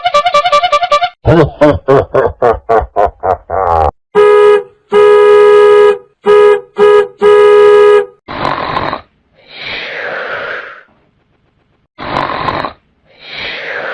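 A run of short comic sound effects played one after another: about a second of fast warbling tone, then a string of quick falling glides, then five loud blasts of a steady horn-like tone in an uneven rhythm, then several breathy, noisy bursts.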